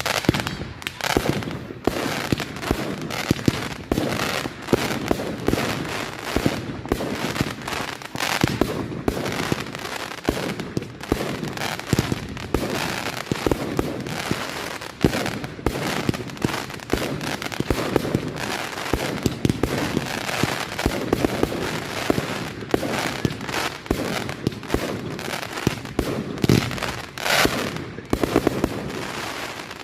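Firework display barrage: a dense, unbroken run of bangs and crackles from shells and cakes going off, with several louder bangs standing out.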